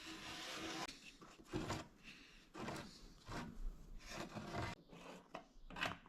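Body filler spreader scraping filler across a BMW E36's rear steel panel in short repeated strokes, about seven in six seconds.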